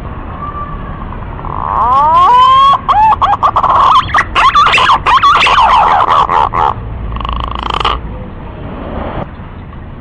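Green pigeon whistling its song: a run of bending, rising and falling whistles from about two seconds in to nearly seven seconds, with a shorter phrase near eight seconds.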